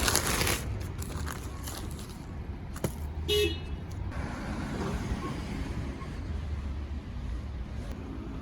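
City street traffic: a steady low rumble of running car engines, with a short car-horn toot about three seconds in.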